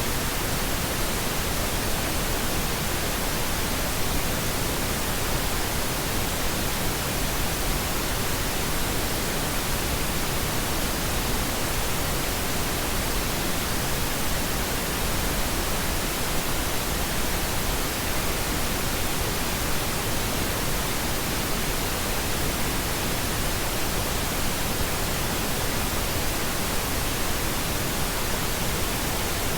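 Steady pink noise: an even, unchanging hiss spread across the whole range from low to high, with no tones or events.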